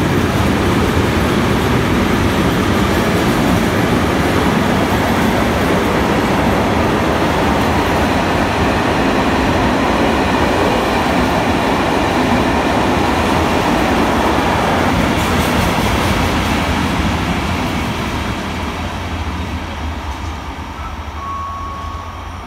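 Intermodal freight train wagons loaded with road semi-trailers rolling past without stopping: a steady, loud rumble and rolling noise that fades from about 17 seconds in as the end of the train goes by.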